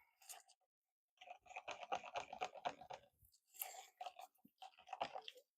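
Faint, quick scraping and clicking of a stir stick mixing pigmented epoxy resin in a plastic cup, in two runs with a short pause between.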